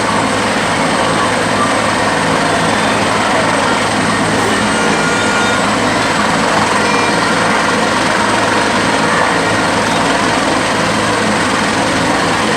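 Helicopter running close by: a loud, steady mix of engine and rotor noise that does not change.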